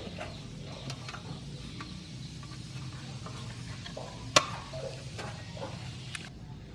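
Scattered light clicks and taps of hand work on small sheet-metal parts, with one sharp click about four and a half seconds in, over a steady low hum.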